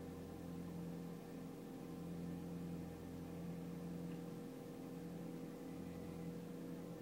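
Audi TT 225's 1.8-litre turbocharged four-cylinder engine at a cold-start fast idle of about 1500 rpm: a steady hum whose low end swells and fades slightly every second or so. The owner doesn't know why it idles this high for so long, and the RPMs bounce.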